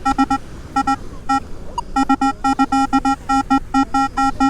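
Metal detector giving a rapid string of short beeps, all at the same pitch, with a brief pause about a second and a half in: a strong target signal as the coil passes back and forth over it.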